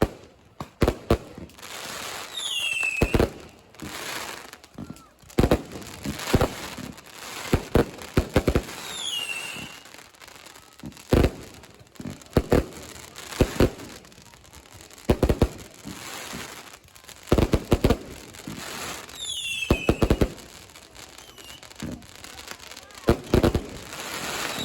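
Fireworks and firecrackers going off all around in irregular sharp bangs, some in quick clusters, with crackling between them. A few short whistles fall in pitch.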